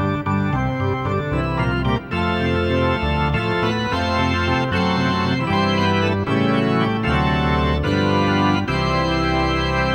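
Organ music: held chords on an organ with a Hammond-like sound, the notes changing every second or so, with a short break about two seconds in.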